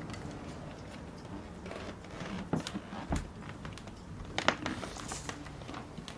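Scattered light clicks, taps and rustling in a small room, with a soft thud about three seconds in and a few sharper clicks a little after four seconds.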